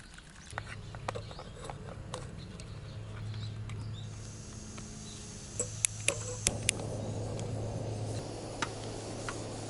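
Portable camping stove burning under a small pot of instant soup, with a few sharp clicks about six seconds in; from then on the soup simmers with a steady bubbling.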